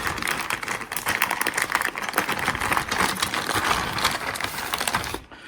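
Small parts and packaging being handled and rummaged through, a dense rustling and clicking that stops about five seconds in.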